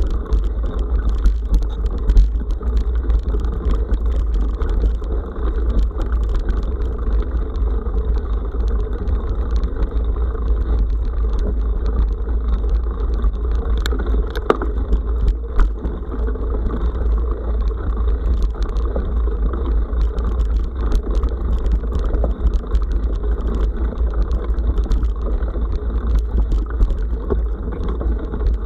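Mountain bike riding over a forest dirt road: a steady heavy low rumble from the tyres and the ride, with scattered clicks and knocks of stones and the bike rattling.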